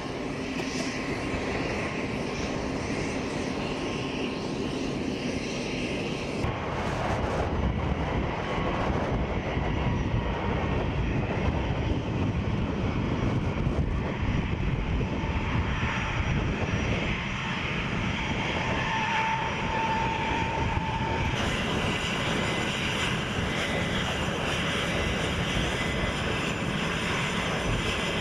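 Fairchild Republic A-10 Thunderbolt II's twin turbofan jet engines running steadily with a high whine, across a few cuts between shots.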